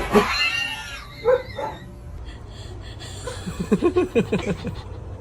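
A cat meowing: one drawn-out meow that rises and falls at the start, two short calls about a second later, then a quick run of short, low calls near the end.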